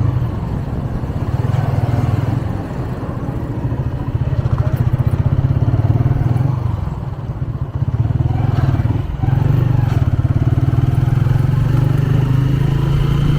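125cc motorcycle engine running under way, the throttle easing off and opening up again several times: a dip about two and a half seconds in, a longer lull around the middle, and a brief drop just past two-thirds before it pulls steadily again.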